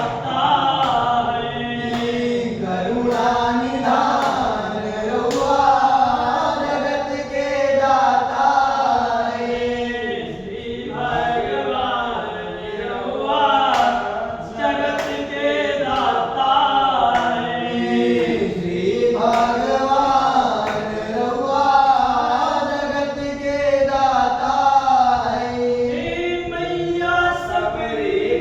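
Voices singing a Hindu devotional bhajan in a chant-like, choral style, with long held notes.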